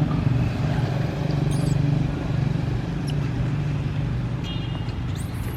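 Steady low motor hum, like a vehicle engine running, with a few short high squeaks over it.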